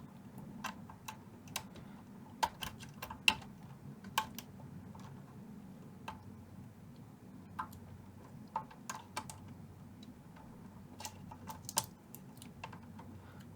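Irregular light clicks and taps of small hand tools and wire leads being handled on the metal amplifier chassis during repair work, over a faint low hum.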